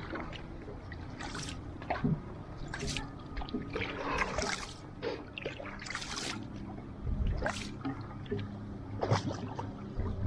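Outrigger canoe paddles dipping and pulling through the water, a splash every second or two, over the steady wash of water along the hull and a low rumble.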